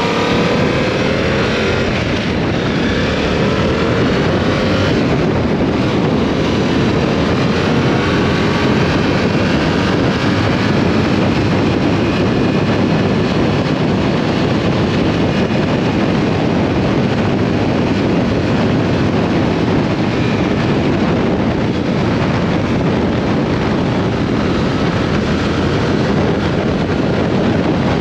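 Yamaha R7's parallel-twin engine revving up through the first few seconds as the bike accelerates, then steady wind rush over the microphone at riding speed that mostly covers the engine.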